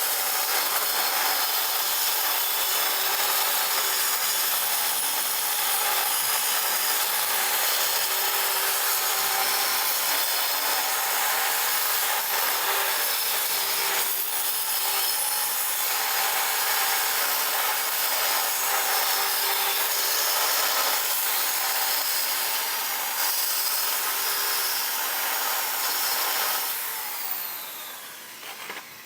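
Power tool running steadily against a workpiece, with a faint held tone under a dense grinding noise. Near the end the noise drops away and the motor spins down with a falling whine.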